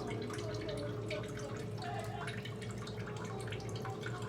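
Honey sauce bubbling and sizzling in a pan with chicken pieces, a steady run of small irregular pops and crackles over a constant low hum.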